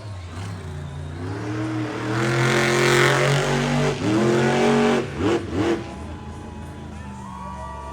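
Monster truck engine revving up and down, with two quick blips of the throttle about five seconds in, then settling to a lower, steadier run.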